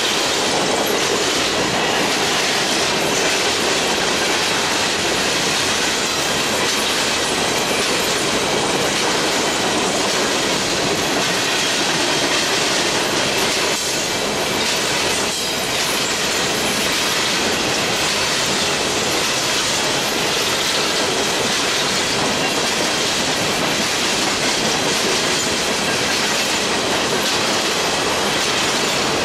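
Coal train's hopper cars rolling past at speed: a steady, loud noise of steel wheels running on the rails.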